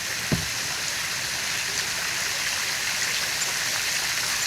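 Small riverbank waterfall splashing steadily into the river, a constant rain-like patter of falling water. One short low knock sounds about a third of a second in.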